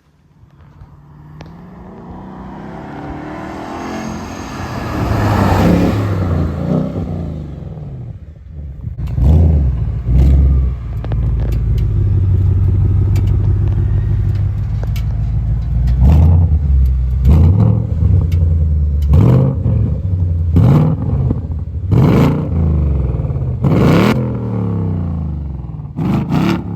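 Ford Mustang GT's 5.0-litre V8 exhaust: first a long pull that rises in pitch and loudness and fades about eight seconds in, then the engine idling and blipped in about eight short, sharp revs.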